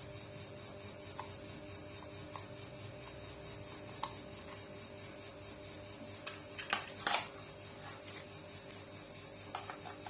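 Light clicks and a short clatter of knocks from handling the sewing machine and its parts, over a faint steady hum.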